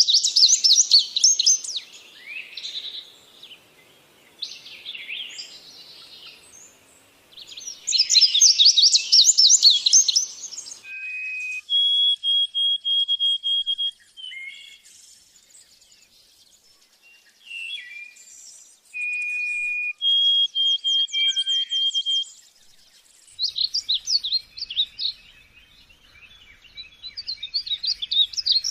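A songbird singing a varied, melodious song. Quick, rapid trilled phrases alternate with long, steady whistled notes, two of them held for about two seconds each.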